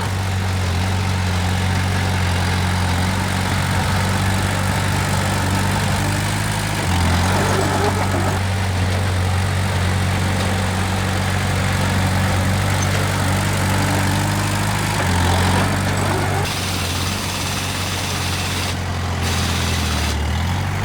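Heavy construction machine's diesel engine running steadily at a low, even pitch, stepping slightly in pitch about a third and two-thirds of the way through.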